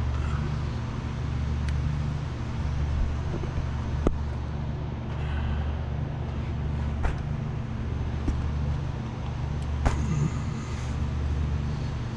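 A steady low engine-like hum running throughout, with a few light clicks and taps on top.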